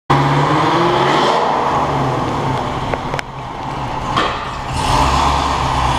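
Supercharged 6.2 L V8 of a 2009 Cadillac CTS-V, fitted with a big aftermarket camshaft and a Corsa exhaust, running on its first start after the install. It runs with an uneven, choppy beat, dips about three seconds in and builds up again about five seconds in.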